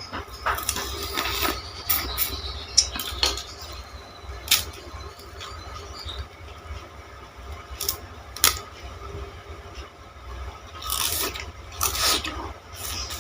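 Close-up biting and chewing of a green sugarcane stalk: irregular crisp, crackling crunches as the fibres are crushed to squeeze out the juice, several strokes clustered a few seconds apart.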